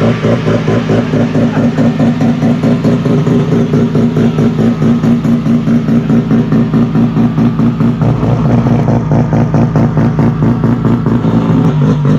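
A car engine idling close by, with a steady, rhythmic pulsing note.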